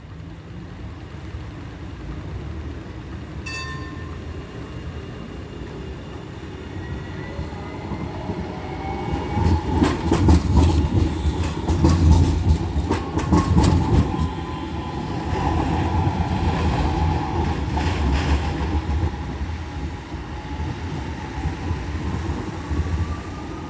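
Tram passing: a low electric motor whine that rises in pitch as it accelerates, with the wheels clattering over rail joints and points, loudest about halfway through. A short ring is heard a few seconds in.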